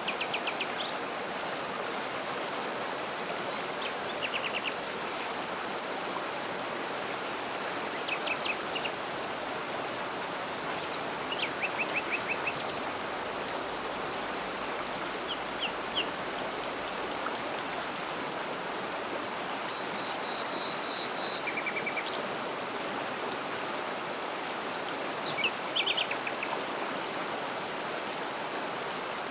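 Waterfall rushing steadily, with small birds chirping and trilling in short, scattered bursts every few seconds over the water.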